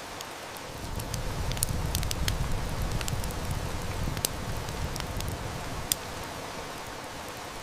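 Steady rain hiss mixed with a wood fire crackling: a run of sharp snaps and pops through the first half, and one more loud pop about six seconds in. A low rumble swells about a second in and fades away by about six seconds.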